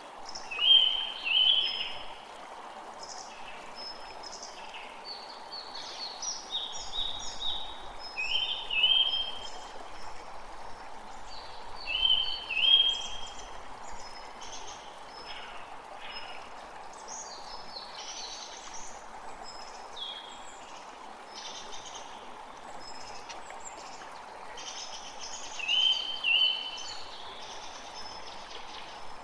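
Birds singing over the steady rush of a stream. The loudest song is a short two-part phrase that comes back four times, with many fainter high chirps between.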